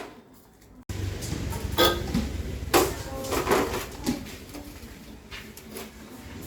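A few separate knocks and clinks, like hard objects being handled, over a steady low hum that starts suddenly about a second in.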